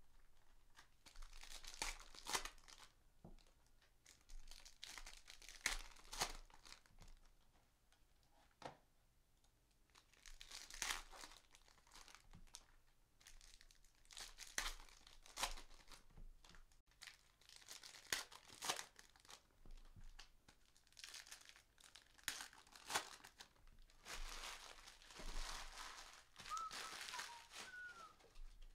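Foil trading-card pack wrappers crinkling and tearing as Panini Prizm basketball hobby packs are opened, in faint, irregular spells of crackling.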